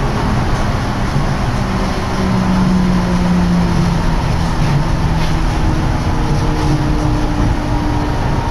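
Steady running noise inside a moving Nippori-Toneri Liner car, a rubber-tyred automated guideway train: a tyre-and-guideway rumble with a humming drive-motor tone over it.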